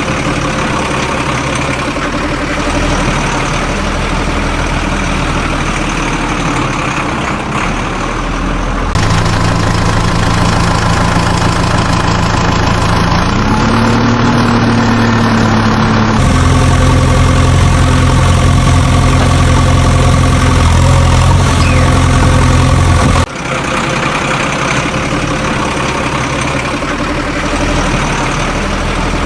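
Heavy vehicle engine running at idle in a few spliced sections that cut in abruptly, with a brief rise in engine pitch about halfway through.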